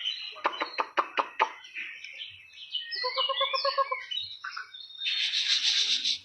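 White-rumped shama singing a varied phrase: a fast run of sharp clicking notes, then whistled glides and a short buzzy churr, with a harsh rasping burst near the end.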